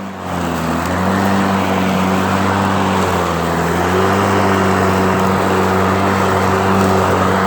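Ryobi 40-volt battery lawn mower running with homemade dethatcher spikes on its blade, raking dead grass out of the lawn: a steady motor-and-blade hum over a rushing noise. It swells in the first second, and its pitch sags briefly about three seconds in before picking back up.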